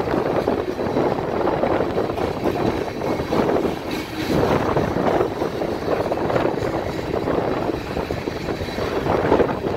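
Tank cars of a freight train rolling past close by: a steady rumble and rattle of steel wheels on the rails, swelling and easing about once a second.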